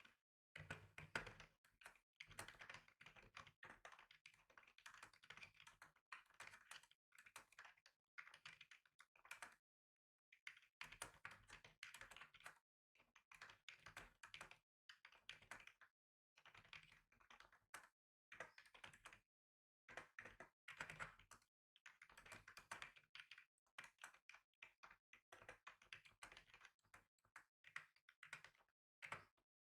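Typing on a computer keyboard: quick runs of key clicks a second or few long, broken by short pauses.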